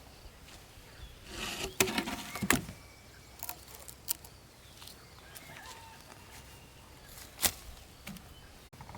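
A few sharp knocks, the loudest about two seconds in and again near the end, with a brief rustle around the first knocks. No chainsaw is running.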